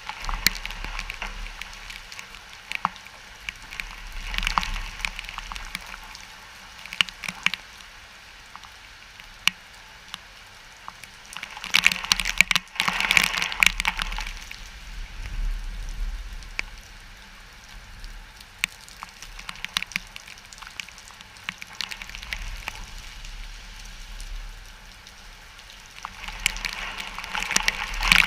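Wind-driven rain from a hurricane rain band, swelling in gusts and easing every few seconds, with a low rumble of wind on the microphone and scattered sharp crackles; the strongest gust comes about halfway through.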